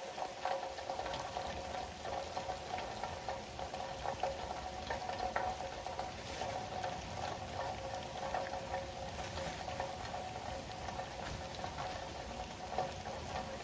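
Rain falling steadily, an even hiss dotted with many small drop taps.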